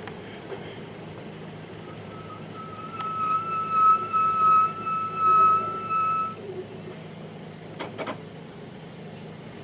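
Nissan Diesel Space Runner RM bus's FE6 diesel engine running low inside the cabin. A loud, steady, high-pitched tone sounds for about four seconds in the middle, wavering in loudness, and a couple of sharp clicks come near the end.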